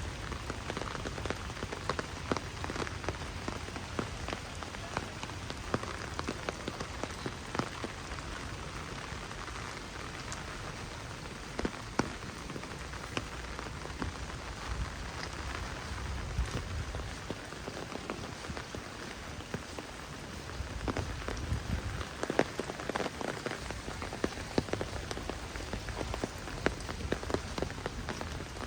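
Heavy rain falling and spattering steadily, with many sharp individual drop hits throughout. It grows a little heavier over the last several seconds.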